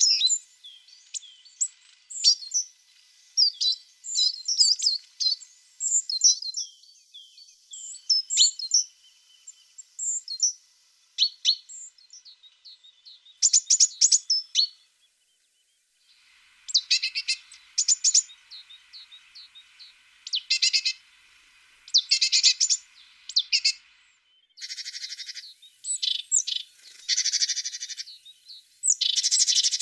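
A tit singing: rapid runs of short, high chirps and trills, with a brief silent break about halfway and abrupt starts and stops in the second half.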